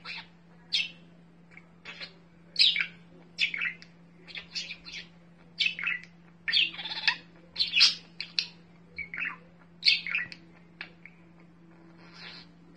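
Kittens mewing: a run of short, thin, high-pitched cries, many falling in pitch, coming close together one after another.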